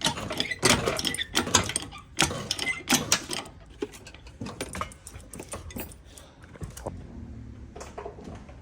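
Metal hand tools clicking and clattering while working on the car: rapid, dense clicks and knocks for the first three seconds or so, then sparser taps.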